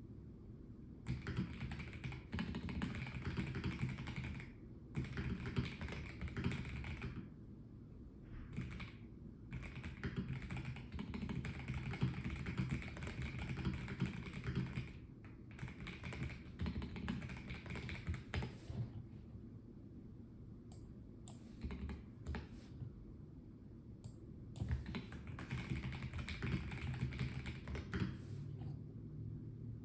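Typing on a Melgeek Mojo84 plastic mechanical keyboard: quick runs of key clicks lasting several seconds, broken by short pauses, with a sparser spell of single keystrokes past the middle before steady typing resumes near the end.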